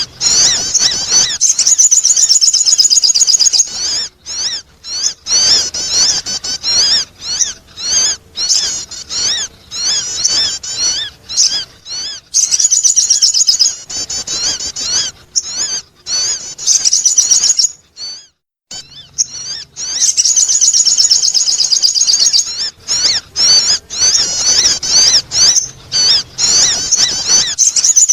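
A high-pitched bird song of rapid chirps and warbling trills from a sogon, played as a lure call to attract birds. It goes on in long runs, with short breaks about four seconds in and again past the middle.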